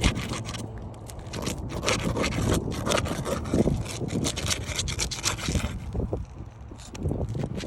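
A tool scraping and rubbing against asphalt roof shingles as nails are worked out from under them, with scattered small clicks and knocks.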